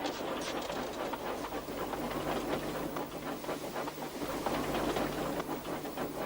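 Train rolling along the track: a steady rattle of fine, rapid wheel clicks over a low hum.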